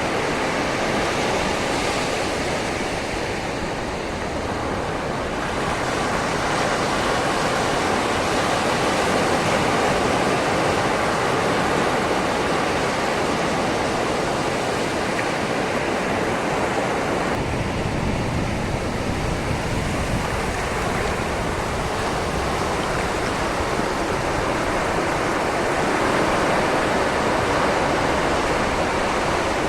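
Sea waves washing over a shoreline: a continuous rush of surf with no breaks, deepening a little past halfway through.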